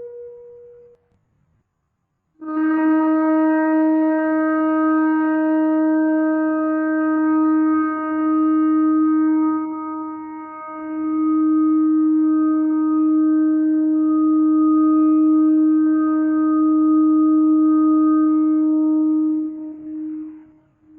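Shofar blowing: a higher note ends about a second in, then after a short pause comes one long, steady blast at a lower pitch, held for about seventeen seconds with slight wavers in loudness before it tails off near the end.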